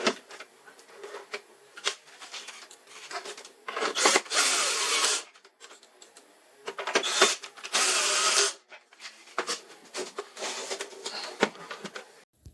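Handling noise at a workbench: scattered clicks and knocks, with two steady, noisy stretches about a second long, some four and eight seconds in.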